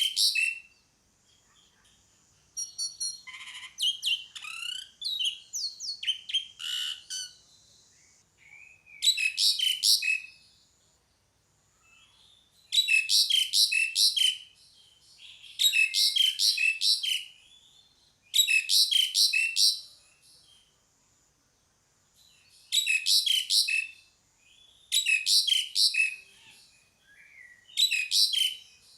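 Asian pied starling (jalak suren) calling: short bursts of rapid, chattering notes, repeated every couple of seconds. In the first several seconds comes a more varied run of whistled, gliding notes.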